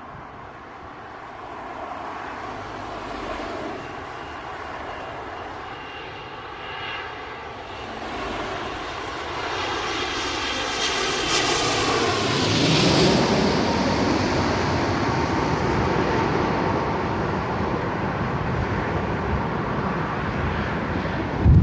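Boeing 787-9 Dreamliner's twin turbofan engines on landing approach, growing louder as the jet comes past, with a whine that falls in pitch about twelve seconds in, then a steady roar as it moves away.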